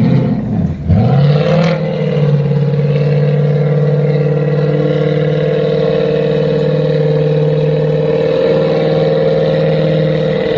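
A sports car engine blipped a couple of times, then held at steady high revs for about nine seconds, its note constant in pitch.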